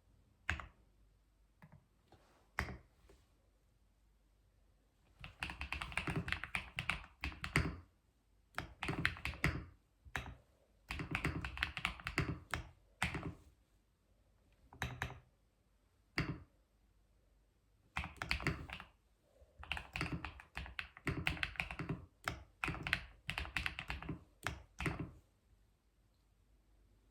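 Keyboard typing: a few lone key presses at first, then bursts of rapid keystrokes a second or a few seconds long, separated by short pauses, stopping shortly before the end.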